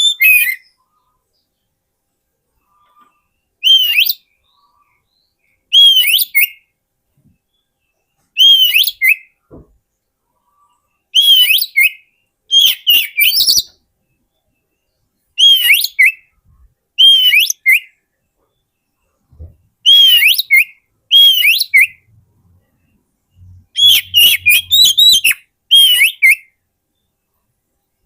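Oriental magpie-robin (kacer) singing in short, loud whistled phrases, each with a note that rises and falls, repeated every couple of seconds with silent gaps. The phrases come in a quicker run near the end.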